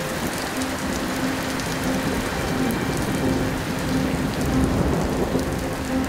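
Steady rain falling, a dense even hiss with fine drop ticks through it.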